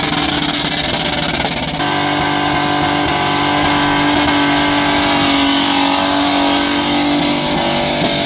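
Muscle car engine revving hard during a burnout, held at high revs in a steady note for several seconds.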